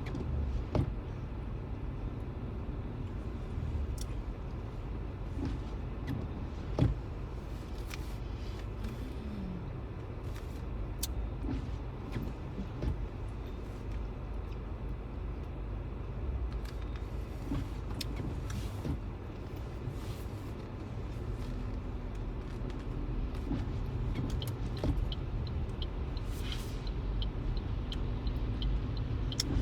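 A car driving on a snowy road, heard from inside the cabin: a steady low rumble of engine and tyres, with scattered sharp clicks and knocks. Near the end comes a run of faint, regular ticks.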